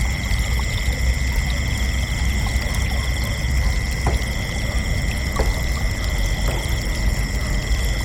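Crickets chirping in a continuous chorus, several unbroken high trills layered together, over a steady low rumbling noise. A few faint ticks sound about halfway through.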